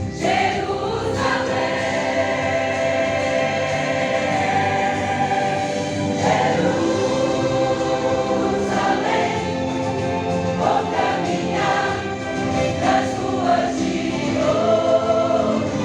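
A church choir singing a hymn, with voices holding long notes together.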